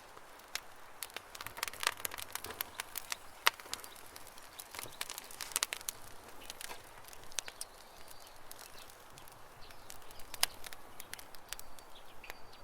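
Campfire crackling, with irregular sharp pops and snaps that come thick in the first half and thin out later. Birds chirp faintly in the background.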